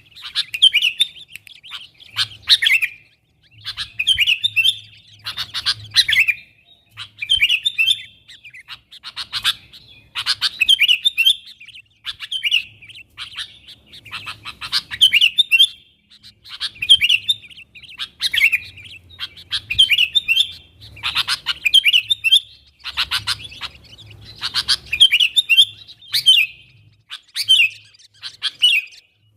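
Sooty-headed bulbul (kutilang) singing vigorously, with short chirping phrases repeated about once a second with barely a pause.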